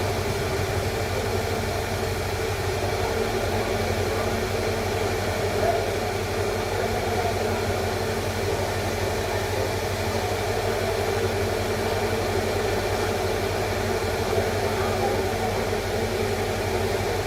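Steady mechanical hum with background noise, unchanging throughout, with no distinct events.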